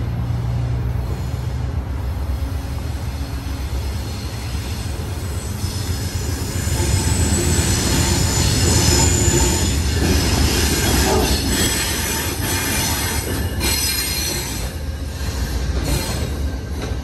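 Amtrak passenger train with a diesel locomotive running into the platform: a steady low engine hum that swells as it nears, a high-pitched wheel squeal midway through, then the cars rolling past with sharp clicks over the rail joints near the end.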